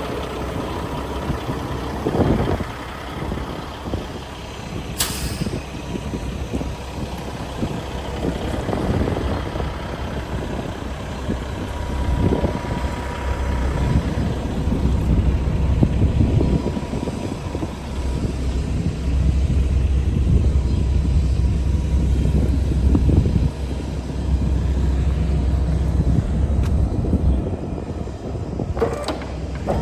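A heavy diesel truck engine idling with a steady low rumble that grows louder about two-thirds of the way in. There is one brief sharp sound about five seconds in.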